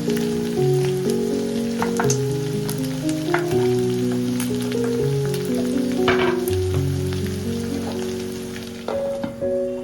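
Food frying in a pan: a steady sizzle with scattered sharp pops and clicks, fading out near the end, under soft melodic background music.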